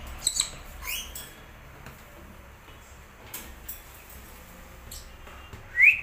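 Caged pet birds giving a few short, high squeaky chirps: two quick calls in the first second and a louder rising chirp near the end, with a few faint clicks between.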